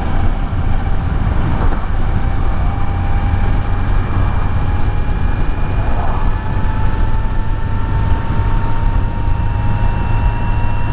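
Kawasaki Z900's inline-four engine running under way while riding, its note climbing slowly, over a heavy low rumble of wind and road noise.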